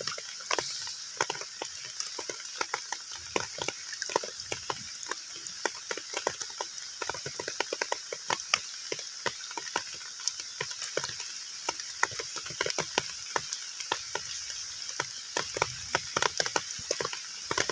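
Heavy rain falling on a pond: a steady high hiss with many separate drops plinking and splatting on the water at an irregular, dense pace.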